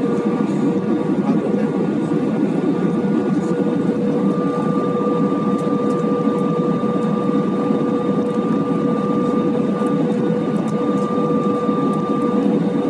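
Steady cabin noise inside an Airbus A320 airliner: an even low rumble of engines and airflow with two steady humming tones, one low and one higher.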